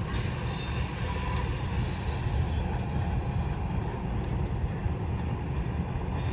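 Slow-moving freight train rolling past, its wheels rumbling steadily on the rails, with a faint thin high squeal from the wheels.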